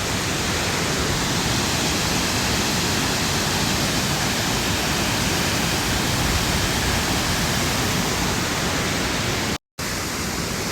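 Waterfall rushing at high flow, swollen with floodwater: a steady, loud roar of water. It cuts out for a split second near the end.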